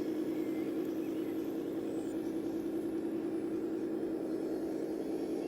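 A radio-controlled scale model tractor or truck running, giving a steady hum with no change in speed.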